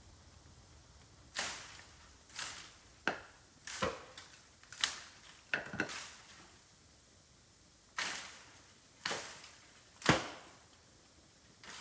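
Dry bamboo cracking and knocking: about a dozen sharp woody cracks at irregular intervals, the loudest about ten seconds in.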